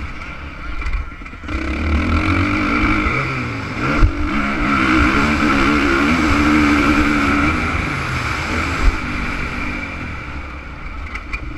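Honda CRF450 motocross bike's single-cylinder four-stroke engine revving up and down under riding, easing off about a second in and then pulling hard before backing off again. There is a sharp thump about four seconds in.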